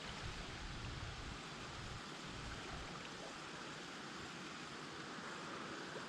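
Steady rush of moving river water, with wind buffeting the microphone in gusts through roughly the first half.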